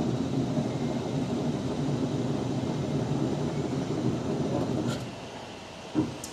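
Heavy machinery running with a steady low rumble that dies down about five seconds in, followed by one sharp knock.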